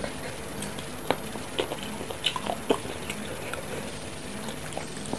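Close-up eating sounds of a person biting and chewing a chicken foot in chili sauce: wet smacks and sharp little clicks, bunched together between about one and three seconds in.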